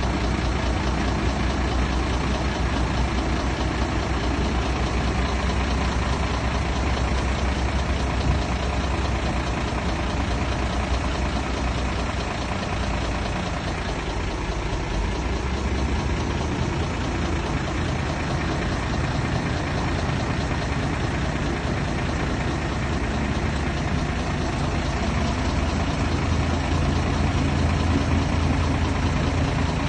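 Heavy diesel engine of a dump truck or bulldozer running steadily; its deep low note fades about halfway through and comes back stronger near the end, as the engine load changes.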